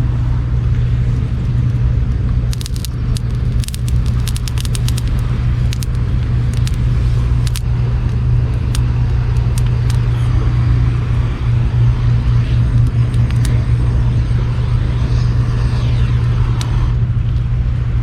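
Campfire wood crackling and popping over a steady, loud low rumble, with a quick cluster of pops a few seconds in and single pops scattered after.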